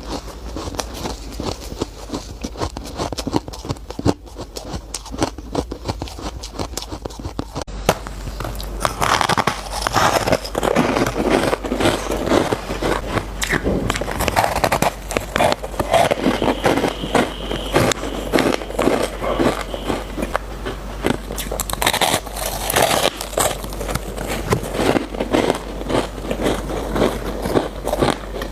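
Close-miked chewing of squeaky shaved ice: dense, irregular crunching and squeaking bites, louder from about eight seconds in.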